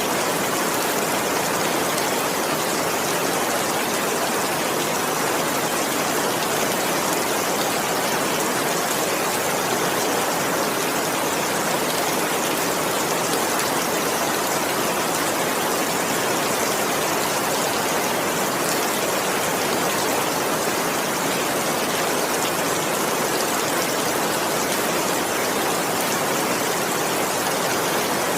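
Steady rain, an even hiss with no single drops or breaks standing out.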